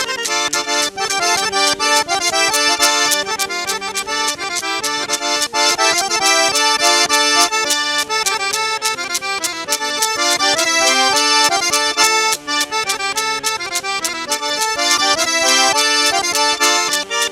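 Accordion-led traditional music, with a fast, steady rhythm and many notes sounding together.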